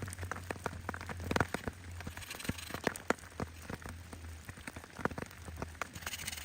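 Rain pattering: many irregular drops ticking on a surface, over a steady low rumble.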